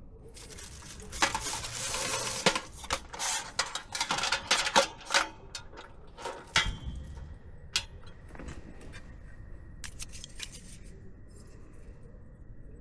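Close-up handling noises: about six seconds of rustling or crinkling with many sharp clicks, then a few scattered clicks.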